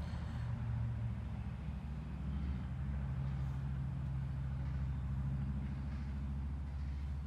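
A steady low mechanical rumble, as from a motor running at a distance, unchanging throughout.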